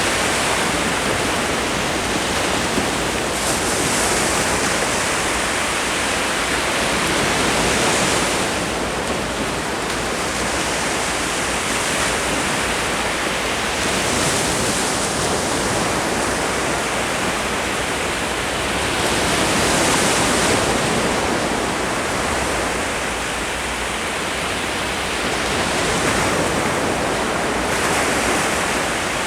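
Ocean waves washing on a beach, a steady hiss of surf that swells with each breaking wave every five or six seconds.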